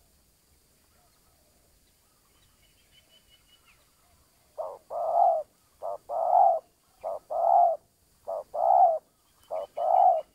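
Spotted dove cooing: five two-part coos, a short note followed by a longer one, repeated about every 1.2 seconds from about halfway through. Faint high chirps from a small bird come about 3 seconds in and again near the end.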